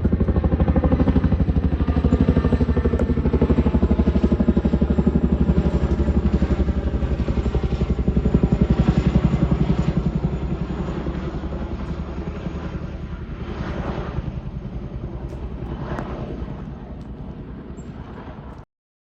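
Helicopter flying low overhead, its rotor chopping in a fast, even beat. The sound is loud at first, fades as it moves away, and cuts off suddenly near the end.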